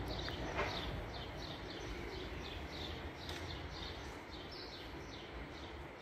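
A bird chirping over and over, a short falling call repeated about two to three times a second, over a low steady street rumble.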